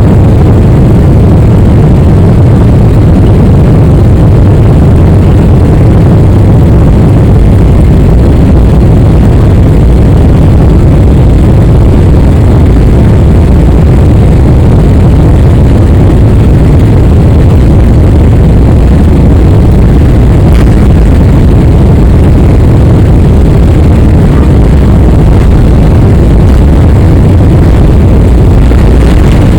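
Boeing 777-300ER cabin noise: the jet's GE90 engines and rushing airflow heard from inside the cabin as a loud, steady low rumble that holds even throughout.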